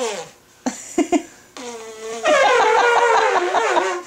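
A toddler's voice imitating an elephant's trumpet: a long, loud, high-pitched wavering call that starts about two seconds in, with a shorter, lower vocal sound just before it.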